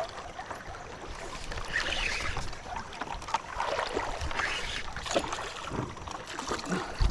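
Water splashing and sloshing around paddle boards while a hooked fish is brought alongside, in uneven swells, with a sharp knock near the end.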